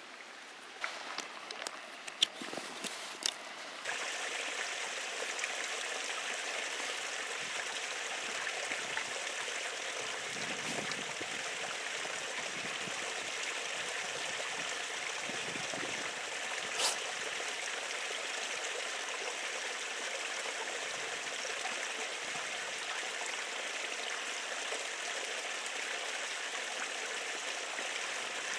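A few sharp clicks, then about four seconds in a steady rushing hiss starts abruptly and runs on evenly, like a gas camp stove being lit after several igniter clicks and burning.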